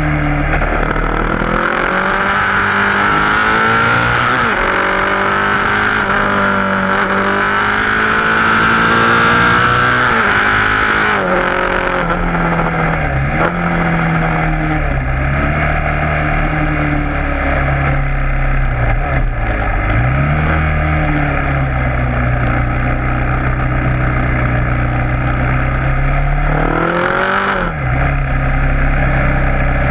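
KTM Duke 690's single-cylinder engine through an Akrapovic exhaust, accelerating with its pitch rising and falling at each gear change. After about twelve seconds it settles to a lower, steadier note, with a few brief dips and a quick rev rise and fall near the end.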